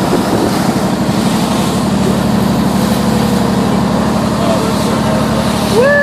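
A boat's engine running steadily under wind and water noise. Near the end a long pitched tone slides up and then holds.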